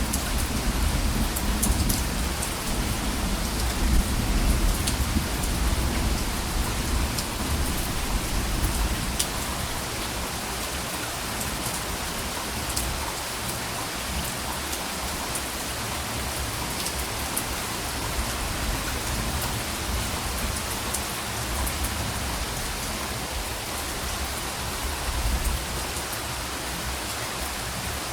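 Steady rain falling, with individual drops ticking on a surface. A low rumble of distant thunder under the rain in the first third fades away and returns briefly near the end.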